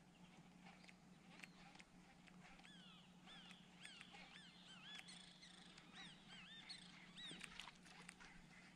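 Faint birdsong: many short notes, each rising then falling, repeated in quick overlapping series from a couple of seconds in until near the end, over a low steady hum.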